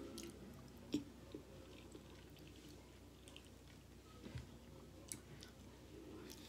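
Faint chewing of a mouthful of spaghetti, with a few soft clicks and smacks.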